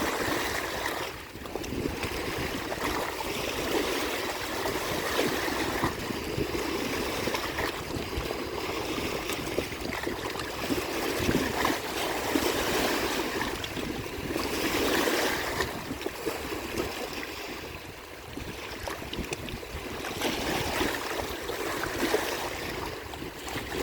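Waves washing onto the shore in a continuous rushing wash that swells and eases every few seconds.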